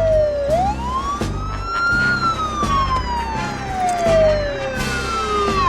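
A police motorcycle's siren wailing: one slow tone that falls, swings back up, then slides down again and cuts off sharply near the end. A pulsing low rhythm from the film's music runs underneath.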